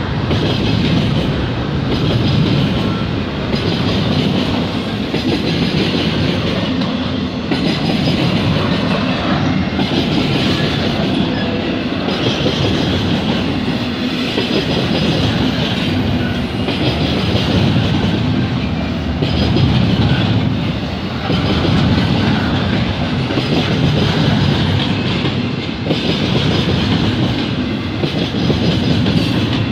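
Double-stack container cars of a CP freight train rolling past: a loud, steady rumble of steel wheels on rail with clickety-clack as the wheels cross rail joints, swelling and easing every few seconds.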